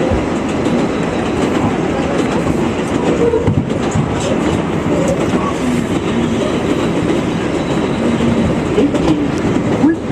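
New York City Subway 7 express train running between stations, a steady rumble of wheels on rail with clickety-clack over the rail joints.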